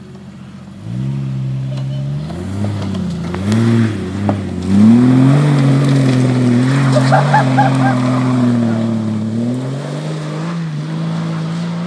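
Jeep engine starting to pull about a second in, revving up in pitch a few seconds later, then running steadily under load and easing off near the end. A few short high chirps about seven seconds in.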